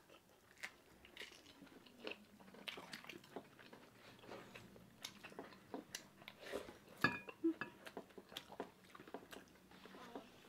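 Close-up eating sounds: people biting and chewing food, with scattered soft crunches and small mouth clicks.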